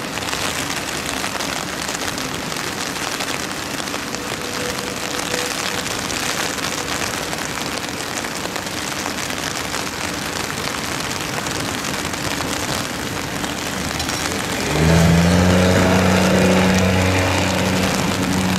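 Heavy rain hissing steadily, with a Boeing 777-200ER airliner landing and rolling out on a wet runway. About fifteen seconds in, the jet's engine noise swells up louder with a steady low hum.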